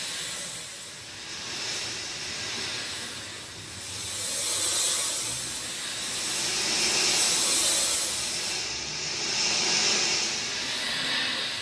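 Steady rain, a hiss of falling drops that swells and eases every two to three seconds.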